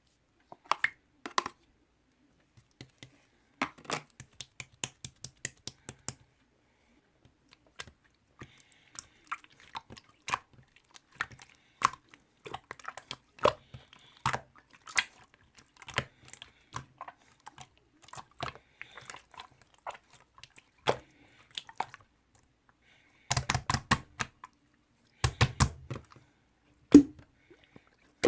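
Slime being squeezed, poked and stretched by hand, making quick irregular sticky clicks and pops in clusters, with a few heavier squelches near the end.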